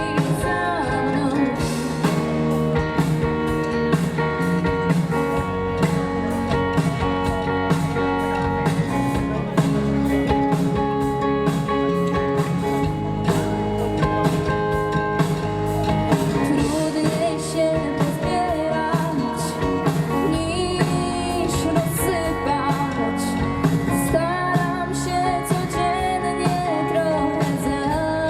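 Live rock band playing a song, with electric guitars and drum kit, and singing.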